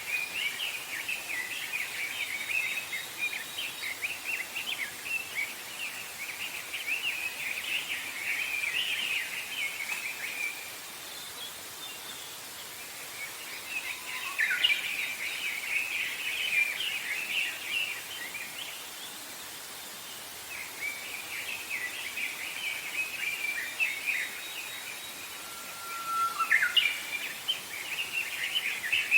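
Songbirds singing in long phrases of rapid, tangled chirps, broken by short pauses of a second or two, over a faint steady hiss of outdoor ambience.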